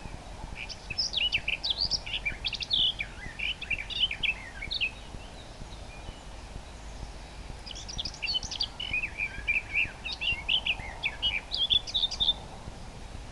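Common nightingale singing two long phrases of rapid, varied high notes, with a pause of a few seconds between them, over a steady low background hiss.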